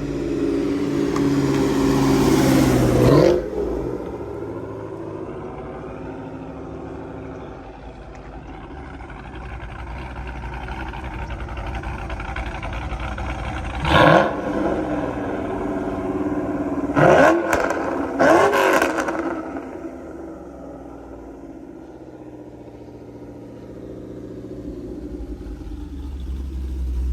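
Cammed GMC Sierra 5.3-litre V8 with long-tube headers and a BTR stage 4 cam, driving outside. It revs up hard to a loud peak about three seconds in, then runs at lower revs with three quick, sharp revs in the middle. It fades and then grows louder again near the end.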